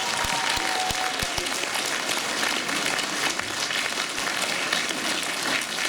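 Audience applauding, with the song's last held note fading out about a second in.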